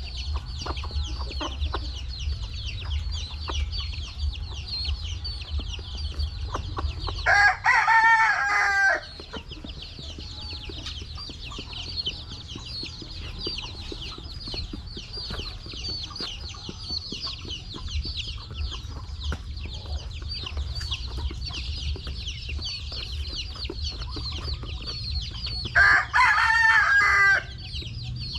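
A flock of chickens peeping and clucking steadily in a dense high chorus, with a rooster crowing twice: once about seven seconds in and once near the end.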